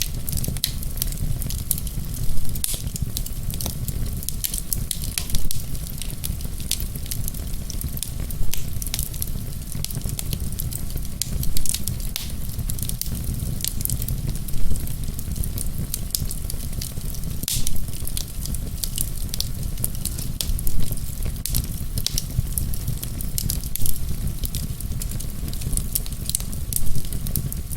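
Wood fire in a fireplace crackling steadily, many small snaps over a low rumble, with a louder pop about every three seconds.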